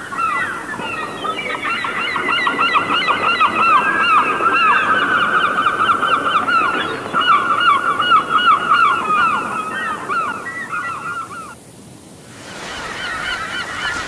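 Birds calling in fast, overlapping series of short downward-sweeping notes, loud and continuous, over the steady rush of a forest stream. The calls break off for about a second near the end, then start again.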